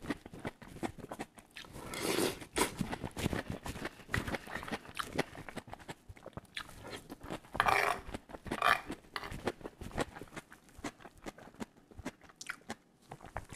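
Close-miked chewing of a soft tofu-and-cabbage okonomiyaki-style pancake: wet mouth clicks and crunching picked up by a clip-on microphone, with a few louder moments about two and eight seconds in.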